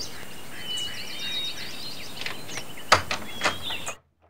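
Outdoor ambience of birds chirping in quick trills over a steady background hiss. About three seconds in there is a sharp click followed by a couple of lighter knocks, and then the ambience cuts off abruptly.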